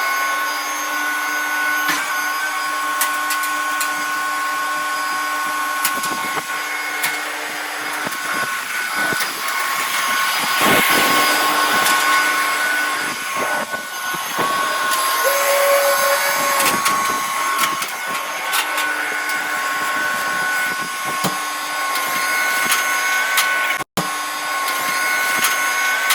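A power tool running steadily with a whine and hiss, broken by scattered clicks and knocks.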